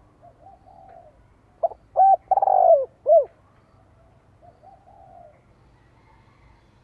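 Decoy spotted dove cooing: a couple of soft low coos, then about one and a half seconds in a loud four-note song phrase with a longer third note, followed by another soft coo.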